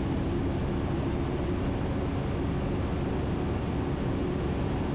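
Steady drone of an Ikarus C42 light aircraft's engine and propeller heard inside the cabin, holding an even pitch and level throughout.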